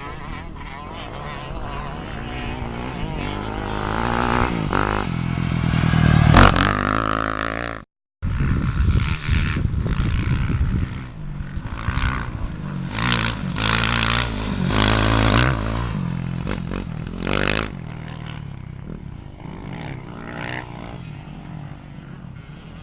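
Off-road racing motorcycle engines revving hard and passing. The sound swells to a loud peak about six seconds in and cuts out abruptly for a split second. It then comes back in repeated revving surges and settles to a lower, steadier running near the end.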